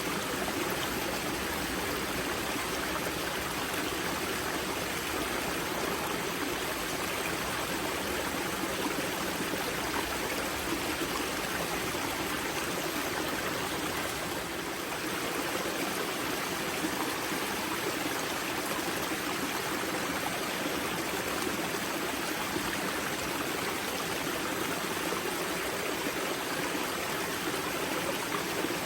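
Spring-fed mountain stream at its source, water running and splashing over rocks in a steady rush.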